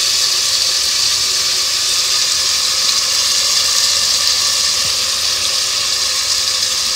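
Chopped onions and tomatoes frying in oil in a cast-iron pot, a steady, even sizzle.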